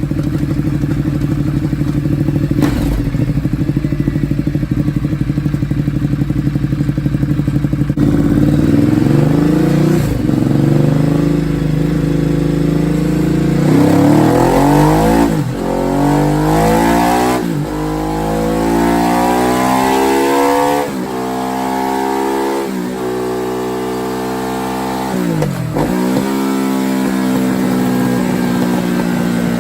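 Ducati Multistrada 1200's L-twin engine through an SC-Project exhaust with the dB killer removed, on a dyno. It runs steadily for about eight seconds, then the revs climb again and again, each climb ending in a sharp drop in pitch like a gear change, and near the end it settles to a steady, slightly falling note.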